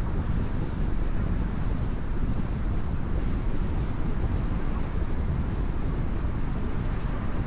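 Steady road noise of a car cruising on a rain-wet expressway: tyres on the wet surface and the rumble of the car at speed, strongest in the low end and even throughout.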